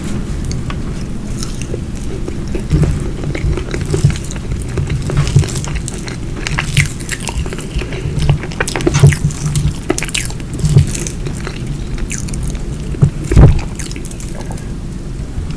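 Close-miked eating: chewing with short wet mouth clicks over a steady low rumble, with heavier knocks about nine and thirteen seconds in.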